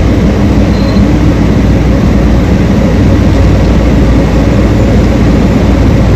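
Large diesel engine of heavy mining equipment running steadily under load, a loud, even low drone.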